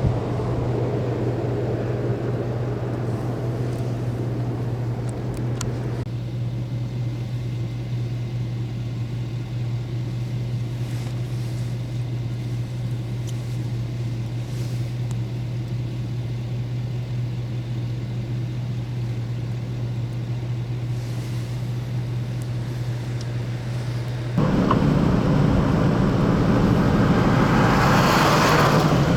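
Motor vehicle running with a steady low drone. About 24 seconds in it suddenly gets louder and rougher, and near the end the engine pitch rises.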